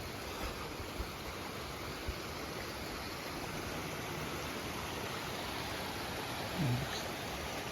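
Creek water rushing steadily, with a brief voice sound near the end.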